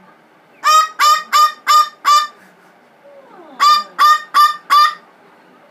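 Blue-fronted amazon parrot squawking in a tantrum: five loud, harsh calls in quick succession, then after a pause of about a second four more.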